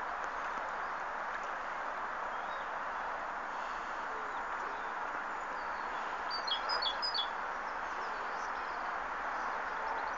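A small bird chirps a quick run of about four short, high notes a little past the middle, over a steady rushing background noise.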